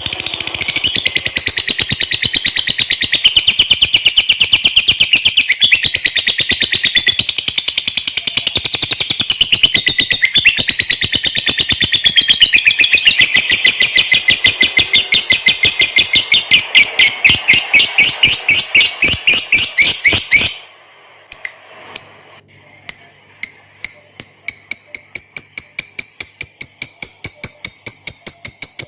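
Lovebird singing the long, rapid chattering trill known as ngekek panjang: a fast run of high repeated notes that goes on for about twenty seconds and stops suddenly. After a few short bursts, a second rapid run of higher notes starts near the end.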